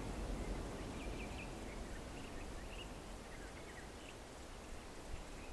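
Quiet outdoor ambience: a low, steady background rumble with a few faint, short bird chirps scattered through it.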